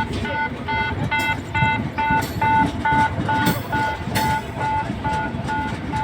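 Electronic warning beeper sounding a short pitched beep over and over, about two and a half beeps a second, over a steady rumble of traffic or machinery.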